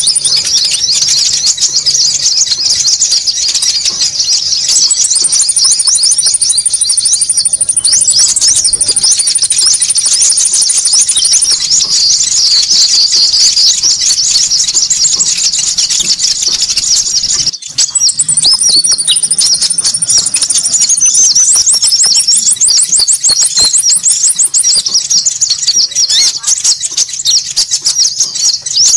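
Dense, agitated chorus of many small songbirds chirping and twittering over one another: a bird-lure (pikat) recording played to draw small birds in. A very high, fast trill comes and goes above the chatter, and the sound breaks off for an instant a little past the middle.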